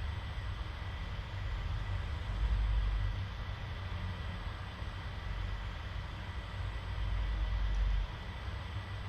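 Steady low rumble over a constant hiss, swelling louder twice, the second swell cutting off suddenly.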